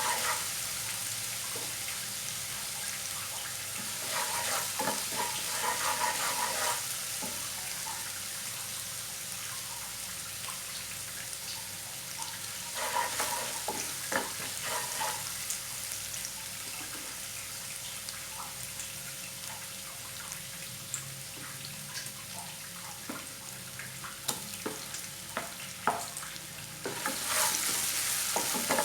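Food sizzling in hot oil in a frying pan, with a spatula stirring and scraping against the pan in spells. The sizzle gets louder near the end.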